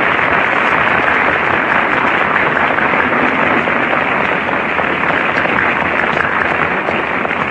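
Studio audience applauding, a steady, dense clapping that fills the whole stretch at full strength.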